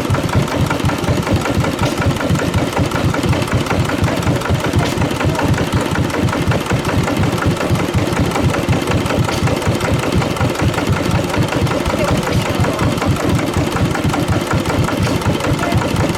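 Slavia 5 hp stationary diesel engine running steadily at an even speed, its exhaust beats coming quickly and regularly.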